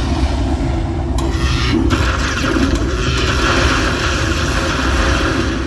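Buffalo Lightning Link slot machine's sound effects at the end of a hold-and-spin bonus, as the prizes are counted up: a dense rumble, with a hiss that swells in about a second in and cuts off at the end.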